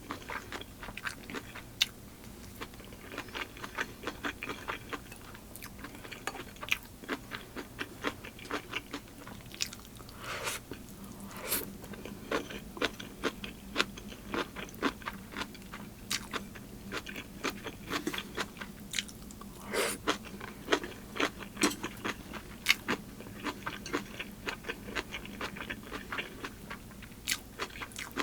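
Close-miked eating: steady chewing with many sharp crunches and bites, several a second, from a meal of boiled pork, kimchi and noodles.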